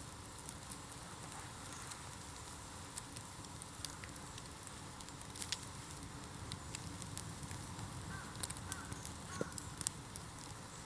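Bamboo bonfire burning, with a steady low rumble and scattered sharp crackles and pops that come more often in the second half.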